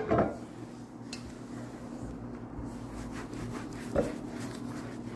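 Quiet kitchenware handling: faint rubbing and scraping of a bowl and cake pan, with one short knock about four seconds in, over a steady low hum.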